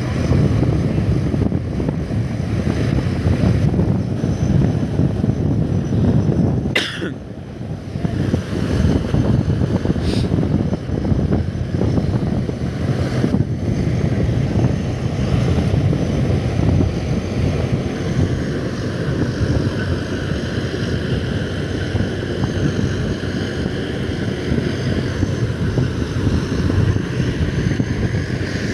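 Strong wind buffeting the microphone, a loud, rough rumble that drops out briefly about seven seconds in.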